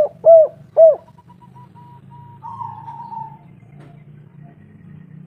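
Spotted dove cooing: the last three short coos of a phrase in the first second, then a lull with only a faint low hum.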